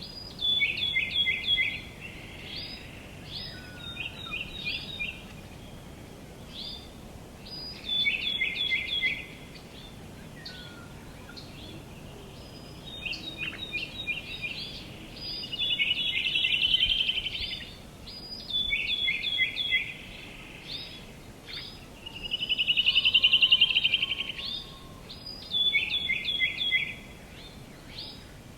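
Songbirds singing short repeated phrases every few seconds, one of them a rapid trill, over a faint steady background hiss.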